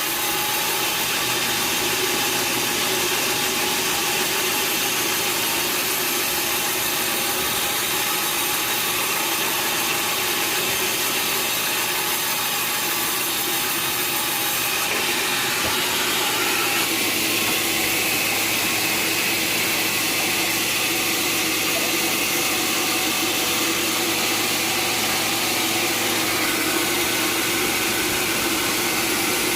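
Sawmill machinery running steadily, a continuous mechanical hum with a steady whine over it. The sound shifts a little past halfway and then carries on as steadily as before.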